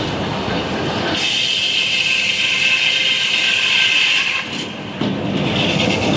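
Sawmill cutting through a log: steady machine noise with a high whine from the blade, which comes in about a second in, dips for a moment past the middle and returns near the end.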